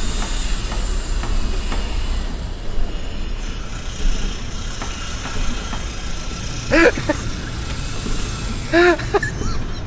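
Steady machine or engine rumble with a hiss. A voice gives two short calls, about seven and nine seconds in.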